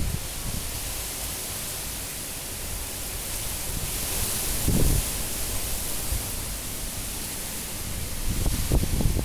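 High cyclone wind rushing steadily, with gusts. Low buffeting hits the phone's microphone about five seconds in, and again several times near the end.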